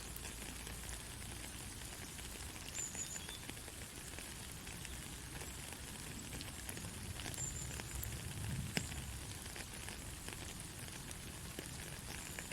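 Soft steady rain: an even hiss of falling drops with scattered light ticks. A low rumble swells briefly about eight and a half seconds in, topped by one sharper tick.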